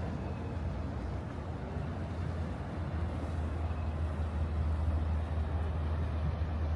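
A motor engine running: a low, steady drone that grows louder about halfway through, over a background of outdoor city noise.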